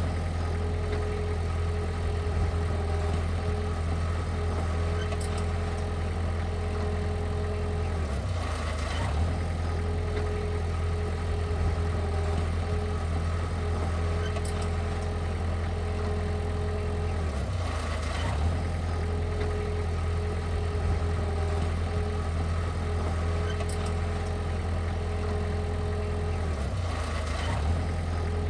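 Heavy-equipment diesel engine running steadily with a deep hum. A higher whine drops out briefly about every nine seconds.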